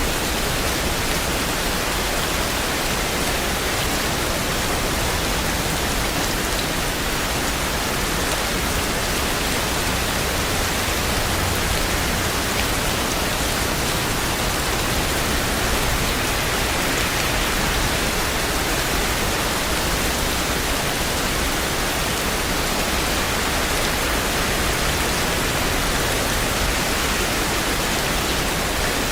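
Steady rain falling, a dense, even hiss without change.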